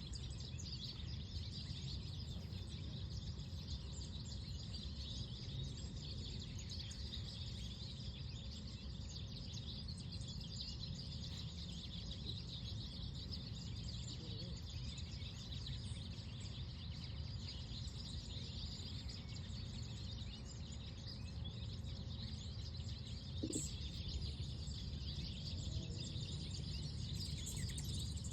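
Park ambience: many small birds chirping continuously over a steady low rumble.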